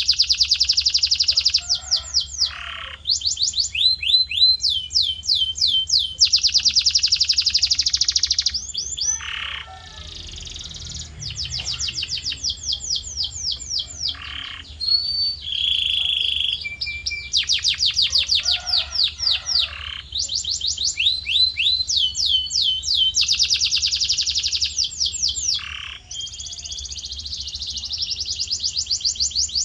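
Male canary singing: fast trills of rapidly repeated sweeping notes, changing from one run to the next, with a short held whistle about halfway through.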